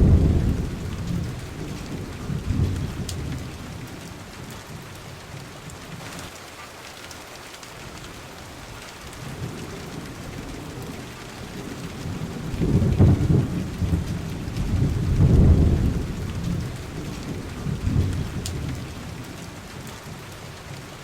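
Steady rain falling with rolling thunder. Deep rumbles swell at the start, again twice in the second half, and more faintly in between.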